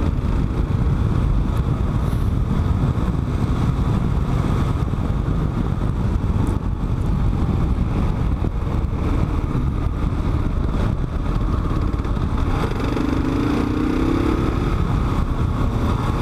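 Kawasaki KLR 650 single-cylinder motorcycle engine running at a steady cruise, mixed with wind rumble on the bike-mounted camera's microphone.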